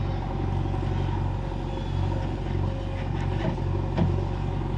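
Heavy diesel engine running steadily at a low, even speed, its hum swelling and easing slightly, with a faint knock about four seconds in.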